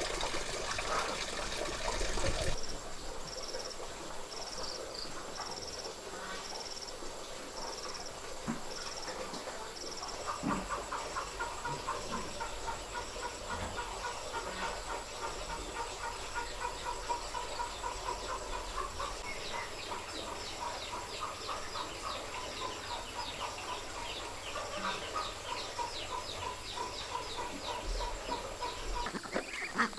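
Farmyard birds calling: a high chirp repeats about once a second at first, then dense, rapid chattering calls go on steadily.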